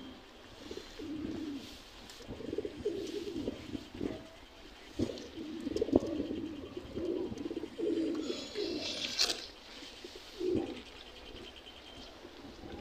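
Racing pigeons cooing in a loft, several low coos one after another, with a sharp click about six seconds in.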